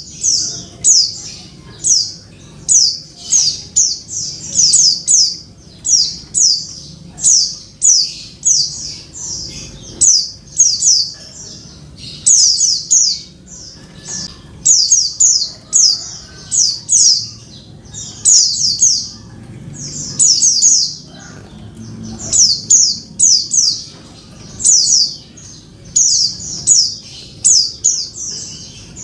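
Female white-eye (pleci) calling, the call used to draw a male into singing: short, high notes that sweep downward, given in quick clusters of two to four about once a second.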